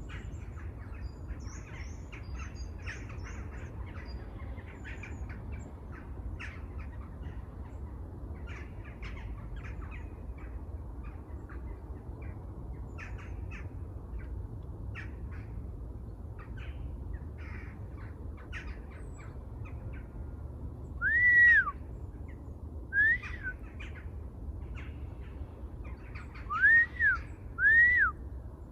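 A chorus of birds chirping in short, quick notes throughout. From about three-quarters of the way through, a louder, closer bird adds clear arched whistled notes, four of them, a second or more apart.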